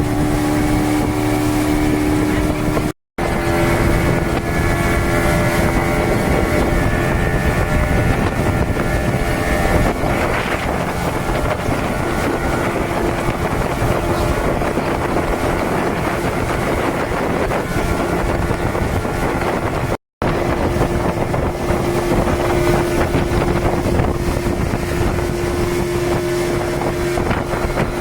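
Speedboat engine running steadily under way, with wind buffeting the microphone and rushing water. The sound cuts out for an instant twice, about three seconds in and about twenty seconds in.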